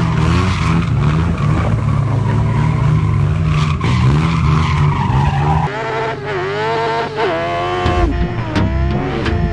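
Racing engines running at high revs, with a cut about two-thirds of the way in to an engine revving up and down through the gears.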